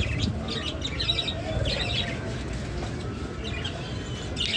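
Lovebirds chirping: short clusters of high, sharp chirps about every half second, over a steady low rumble.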